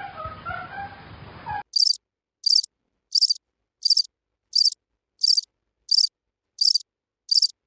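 A lower, noisier sound cuts off about one and a half seconds in. Then an insect chirps: evenly spaced high-pitched chirps, each a quick run of pulses, about one and a half a second.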